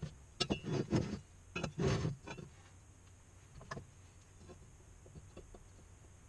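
Metal exhaust pipe sections being handled: a quick run of knocks and scrapes over the first couple of seconds, then a single knock near four seconds.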